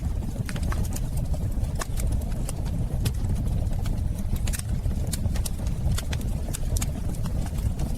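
Wood fire burning in a fireplace: a steady low rush of flame with irregular sharp crackles and pops scattered throughout.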